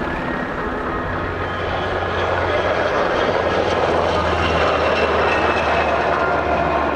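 JASDF UH-60J rescue helicopter flying a demonstration: steady rotor drone and the whine of its twin turboshaft engines. The sound grows louder from about two seconds in and peaks near five seconds, with the high whine sinking slightly in pitch.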